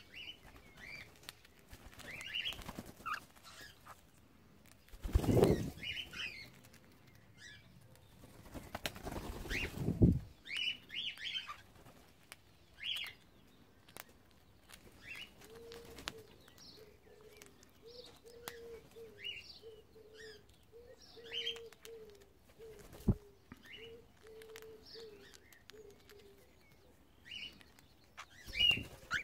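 Cockatiels giving short chirps, with two loud flurries of wing-flapping about five and nine seconds in. A low pulsing tone runs through the second half.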